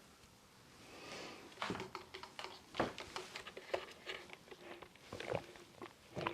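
A run of small, irregular clicks and taps from cosmetics being handled close to the microphone, starting about a second and a half in.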